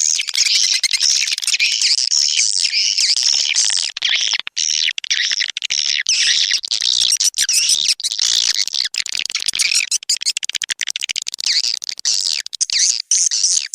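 Edible-nest swiftlet calls from a swiftlet-house lure recording, an outside-house call: a dense chorus of rapid, high twittering chirps and trills with only brief gaps. It is the playback used to attract swiftlets to nest.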